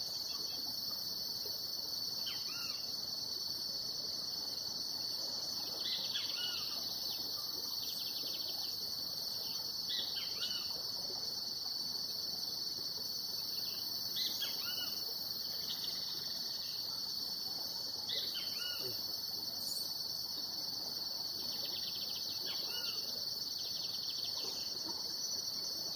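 A steady, high-pitched insect chorus, with short bird chirps breaking in every few seconds.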